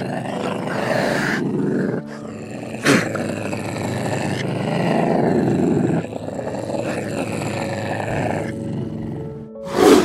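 A big cat's growling roars, rough and pulsing, in stretches that cut off abruptly about two and six seconds in, over soft background music. Two short sharp bursts come about three seconds in and at the very end.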